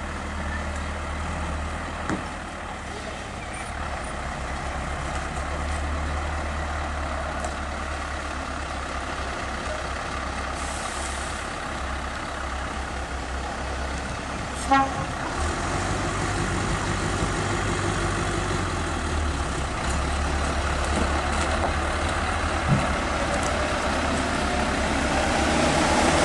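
Heavy truck engine running steadily at low revs, with a short horn toot about fifteen seconds in and the engine speeding up near the end.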